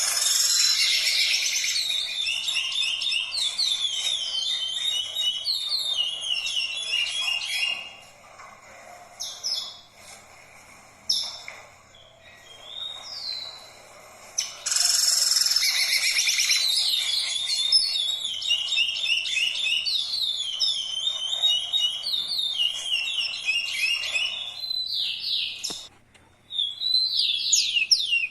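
A songbird singing long, fast songs of repeated, quickly descending high notes. Two long songs of about eight and ten seconds, with a few short calls between them and a brief phrase near the end.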